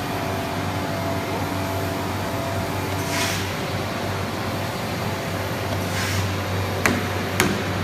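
CNC nesting machining centre running with a steady mechanical hum and several held tones that change about three seconds in. Two short hisses come about three and six seconds in, and a few sharp clicks near the end.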